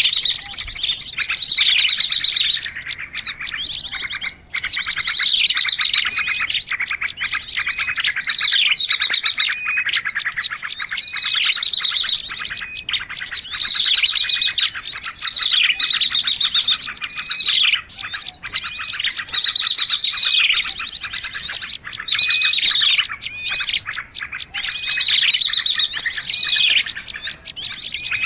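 Small songbirds chirping and trilling without a break, high and busy, with falling calls repeating every second or two: a bird-lure recording meant to draw in small birds.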